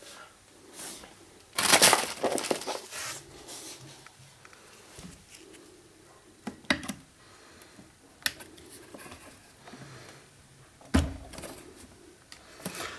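Plastic clicks, knocks and scraping as office chair caster wheel stems are pushed into new plastic bushings in the chair base. There is a loud crunching scrape about two seconds in, then a few sharp clicks, with a heavier knock near the end.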